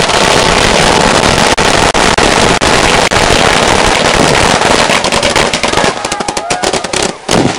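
A long, dense string of firecrackers going off in rapid, continuous succession, thinning out about six seconds in.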